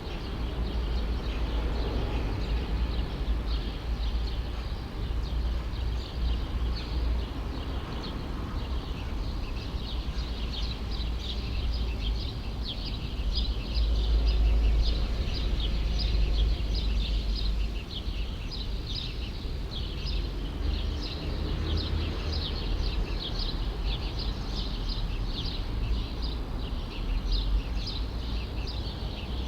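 Small birds chirping in rapid, dense runs of short high notes, thickest from about a third of the way in, over a steady low rumble of city background.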